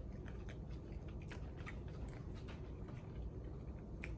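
A person chewing a soft dumpling close to the microphone, with small wet mouth clicks scattered throughout, over a low steady hum.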